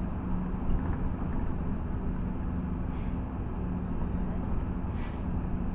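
Cabin noise of a LiAZ 6213 articulated city bus under way: a steady low engine and road rumble with a constant hum. Two brief hisses come about three and five seconds in.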